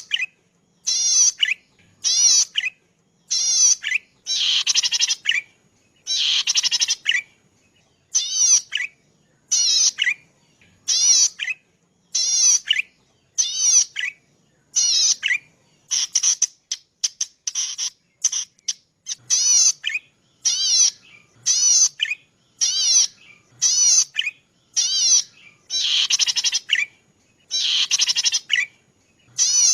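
Cici padi singing: short, high phrases of rapidly wavering notes, repeated about once a second with brief silences between them. A few phrases are longer and buzzier.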